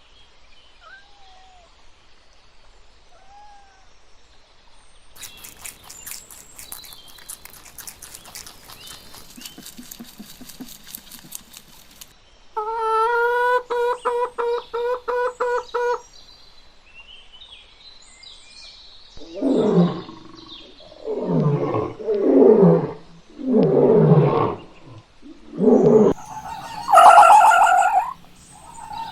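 A sequence of different animal calls. First come faint short chirps, then a fast run of clicks for about seven seconds, then a pulsed buzzing call for a few seconds. Last come about six loud calls, each dropping in pitch, and a higher call near the end.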